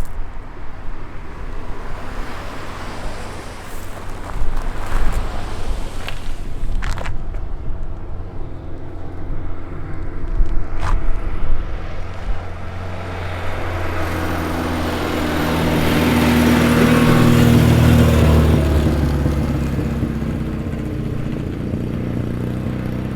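Low engine rumble with a few sharp knocks, then a car drives past: its engine grows louder from about halfway, is loudest a few seconds later, and fades away.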